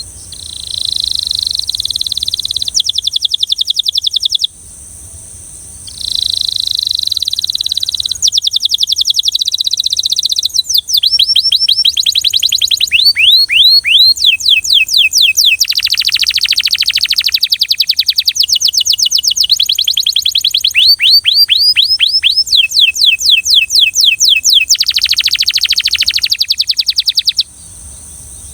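Belgian canary singing: a short phrase of fast repeated notes, then after a pause a long phrase of about twenty seconds made of rapid trills, with runs of falling whistled sweeps and then rising ones. A steady high-pitched drone sits underneath.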